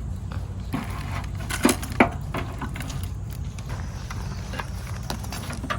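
A steady low rumble with a few short, sharp clicks, two of them close together about two seconds in.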